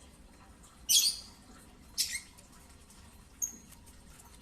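Lovebird chicks about two and a half weeks old giving short, raspy, high-pitched calls, twice about a second apart, then a brief thin peep.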